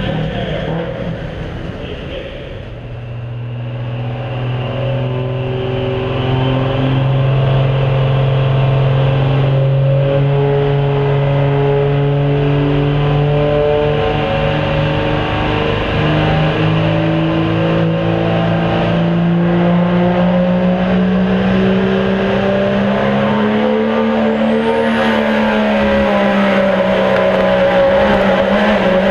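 Pro Street diesel pulling truck's engine working under heavy load during a pull, heard on board. After a brief dip in loudness about two seconds in, it settles into a steady drone whose pitch climbs slowly over the next twenty seconds or so.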